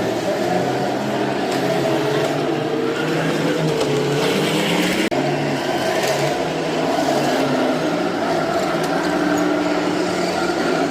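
Radio-controlled model vehicles running, their motors whining at pitches that rise and fall with the throttle. There is a brief break just after five seconds in.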